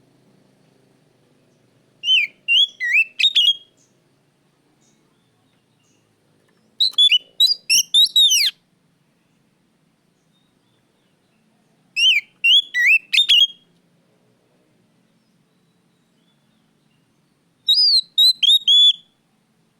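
Oriental magpie-robin (kacer) singing loudly: four short phrases of quick, rising and falling whistled notes, each about a second and a half long, spaced about five seconds apart.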